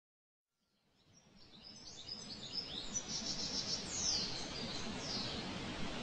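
Birds chirping, many short quick calls over a steady background noise, fading in from silence over the first few seconds.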